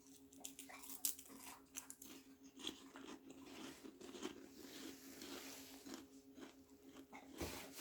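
Crisp crackers being bitten and chewed: a run of faint, irregular crunches.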